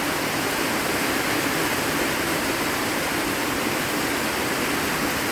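Heavy rain pouring down, drumming on a metal patio roof, which makes it sound louder. A steady, even rush with no breaks.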